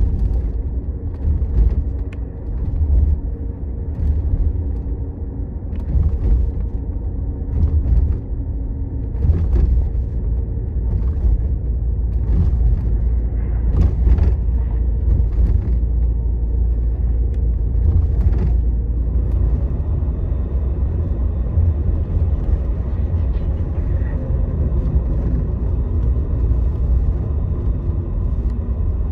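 Scania Astromega double-decker highway bus running along the road, heard from inside the cabin: a deep, steady rumble of engine and road noise. Sharp clicks and knocks come through it for roughly the first two-thirds, and it runs more evenly after that.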